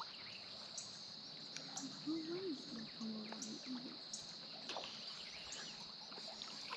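Steady high-pitched drone of summer insects, with short high chirps recurring about once a second. A faint, brief murmur of a voice comes in about two seconds in.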